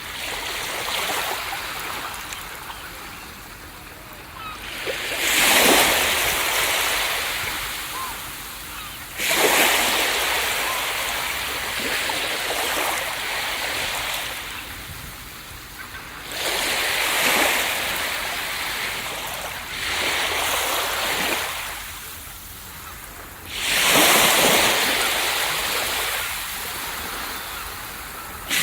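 Ocean waves breaking on a beach: about five waves crash several seconds apart, each a sudden surge of surf that washes out and slowly fades before the next.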